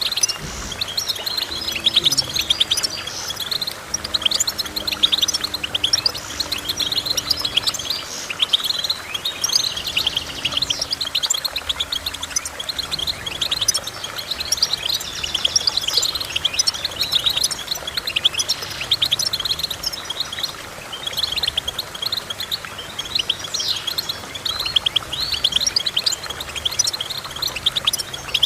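A small finch singing a fast, continuous twittering song of rapid high chirps and trills, with faint low steady tones underneath during the first half.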